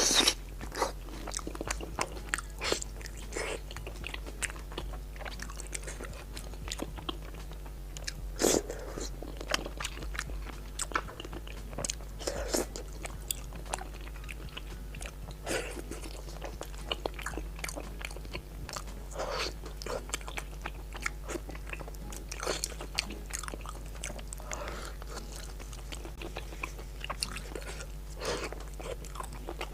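Close-miked chewing and biting: irregular wet mouth smacks and small crunchy clicks of a person eating, over a steady low hum.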